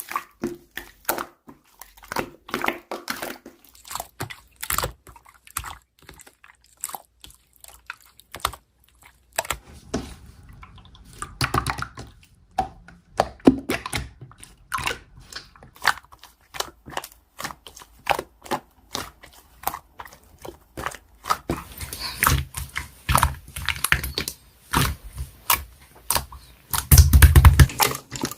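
Slime being squished and poked by hand, making a quick, uneven run of sticky clicks, pops and crackles, loudest near the end.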